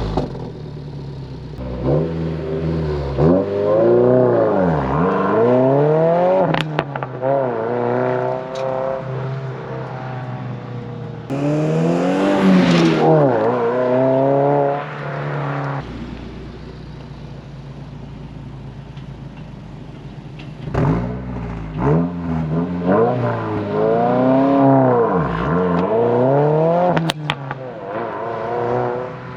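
2022 Subaru WRX's turbocharged 2.4-litre flat-four through an AWE Touring cat-back exhaust, revved several times in short bursts that rise and fall back, and settling to idle between them.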